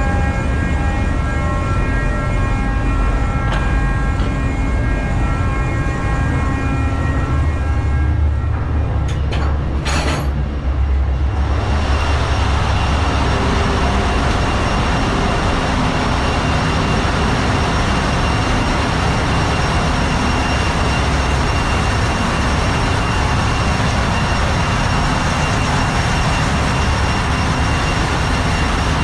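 Loud, steady machinery din of a large tanker's engine room. In the first third it carries several steady whining tones; a few sharp clicks come about ten seconds in, and the rest is a denser hiss with one high steady whine over a low rumble.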